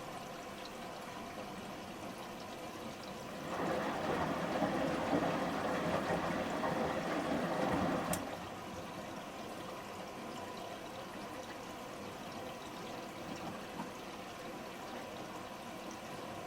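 Samsung front-loading washing machine during its first rinse: water trickles and sloshes in the drum, then a louder rush of water comes in for about four seconds before cutting off with a click.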